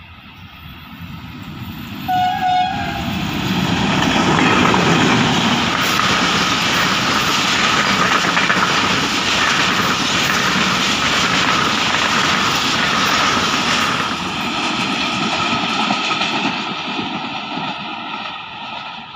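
Passenger train hauled by a diesel locomotive approaching and passing at speed: one short horn blast about two seconds in, then loud wheel noise and clatter over the track as the coaches go by, fading as the train recedes near the end.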